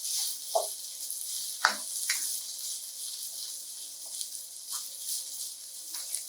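Chopped red pepper sizzling in hot oil in a frying pan, a steady crackling hiss, with a few short scrapes or knocks in the first couple of seconds.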